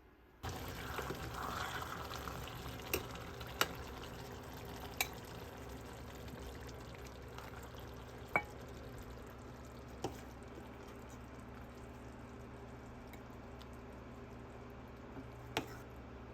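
Food sizzling in a frying pan, starting suddenly and easing off a little, with a few sharp clicks of a utensil against the pan.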